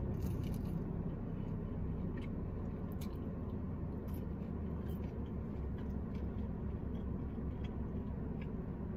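A person chewing breaded jalapeño cheddar bites with the mouth close to the microphone: soft, irregular mouth clicks and squishes. A steady low rumble runs underneath.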